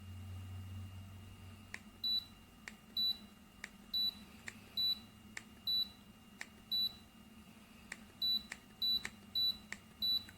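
Humidifier control panel beeping as its buttons are pressed: about ten short high beeps, each just after a click of the button, roughly one a second with a short pause midway. A faint steady high whine runs underneath, and a low hum stops about two seconds in.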